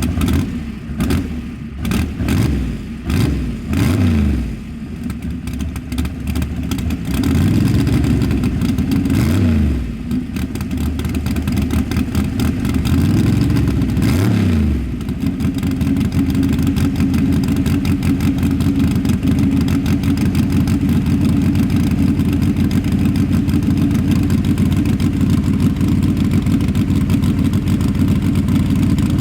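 Small-block V8 in a Cadillac street car, revved in about five blips that rise and fall over roughly the first fifteen seconds, then held at a steady fast idle.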